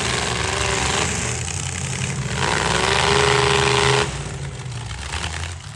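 Demolition derby truck engines revving hard over constant engine noise; one climbs in pitch a little after two seconds in, holds high, then drops off suddenly about four seconds in.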